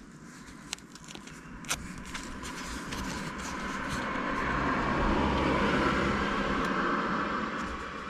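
A car driving past outside, its tyre and engine noise swelling over a few seconds and then fading away. A few small clicks come in the first two seconds.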